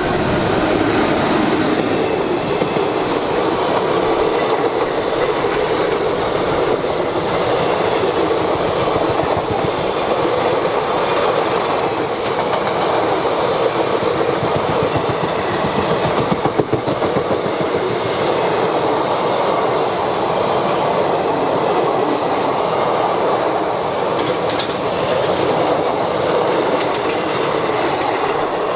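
Indian Railways express train rolling past at speed: a steady rumble of the coaches, with the wheels clicking over the rail joints. A faint high squeal comes near the end.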